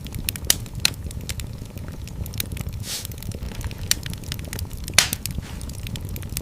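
Wood fire burning in a fireplace: a steady low rumble of the flames with irregular crackles and sharp pops, the loudest pops about a second in and near the end, and a brief hiss about halfway through.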